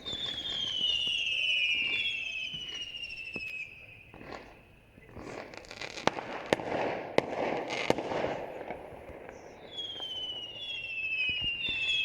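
Fireworks: several overlapping whistles, each falling in pitch, for the first few seconds. Then a stretch of crackling broken by a few sharp bangs in the middle, and more falling whistles near the end.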